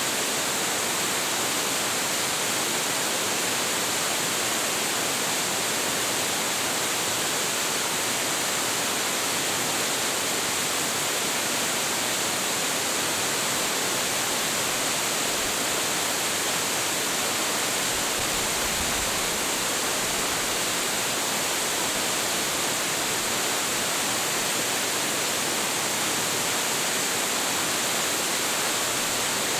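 Large, high-volume waterfall: a steady, unbroken rush of falling water.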